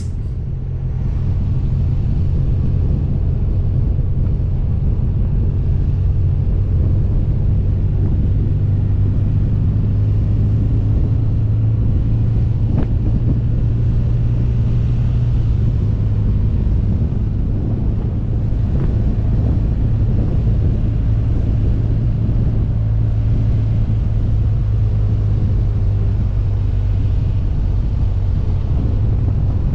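BMW R 1200 GS Adventure's boxer-twin engine running steadily at cruising speed, with wind noise on the microphone.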